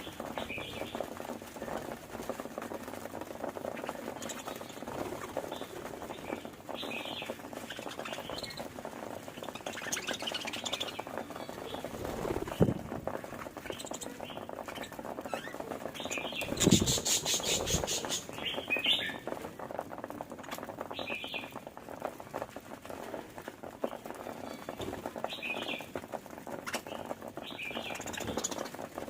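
Budgerigars chattering and chirping, with many short high chirps over a continuous soft warble and a louder burst of rapid chatter about two-thirds of the way through.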